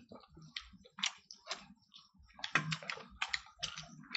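Eating sounds from the mouths of people eating: irregular small wet clicks and smacks of chewing and lip smacking, busier in the second half.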